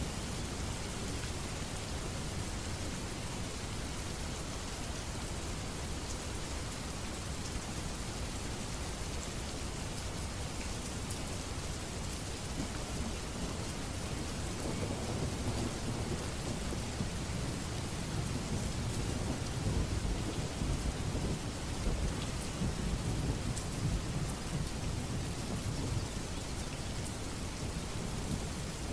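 Steady rain, with a low rumble of thunder that swells from about halfway through and eases near the end.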